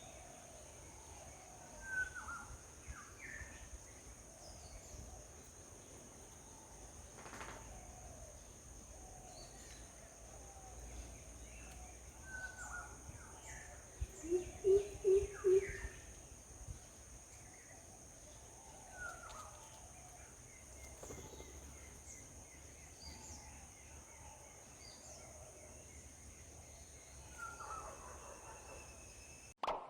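Outdoor garden ambience: birds calling with short, repeated falling chirps, and a low call of about four quick notes roughly halfway through, over a steady high-pitched hum. A sharp knock comes at the very end.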